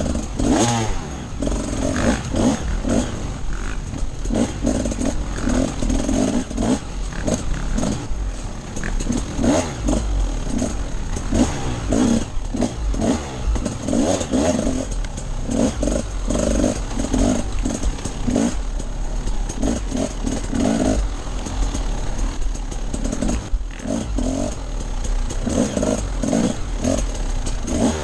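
Enduro dirt bike engine being ridden off-road, revving up and falling back again and again as the throttle is opened and closed.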